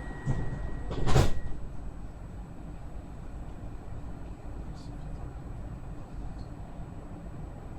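Commuter train running on rails, a steady low rumble heard from inside the carriage. A single sharp knock about a second in is the loudest sound.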